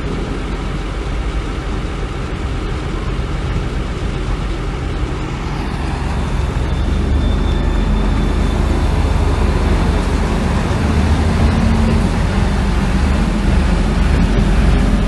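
Heavy diesel engine of earthmoving machinery running with a steady low rumble, growing louder about halfway through.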